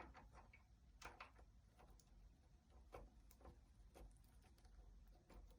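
Faint, irregular clicks and taps from a quaker parrot on a bead swing, the beads knocking as it moves and pecks.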